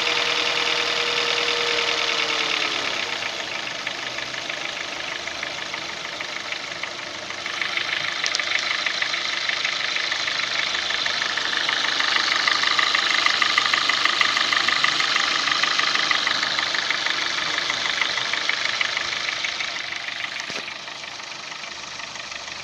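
Honda Jazz petrol engine idling with a fast, even metallic rattle ("тарахтит"), which the owner suspects is a stretched timing chain. The rattle gets louder about a third of the way in and fades again near the end.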